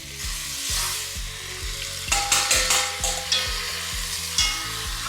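Seared chicken thighs, onion, carrot, garlic and spices sizzling in hot oil in a soup pot while being stirred, with a few sharp clicks of the utensil against the pot about two seconds in.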